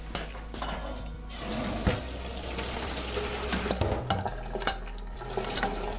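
Boiled rice and its hot cooking water poured from the pot into a sieve, water splashing and running down into the sink, with a knock of the pot about two seconds in and again near four seconds.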